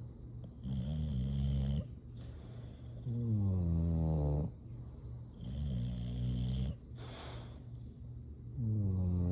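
English bulldog snoring in its sleep: four long, pitched snores about two seconds apart. Higher snores alternate with lower ones that fall in pitch, and there is a short airy breath between the third and fourth.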